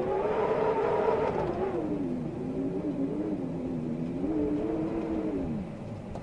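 Storm wind howling: a pitched moan that rises and falls several times over a steady rushing noise.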